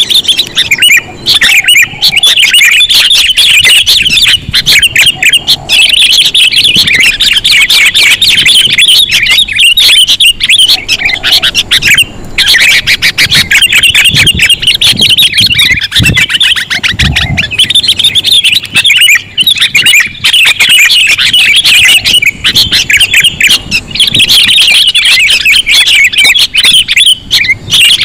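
Loud, rapid, continuous chattering calls of sooty-headed bulbuls (kutilang), played as a bird-trapping lure, with a few short breaks.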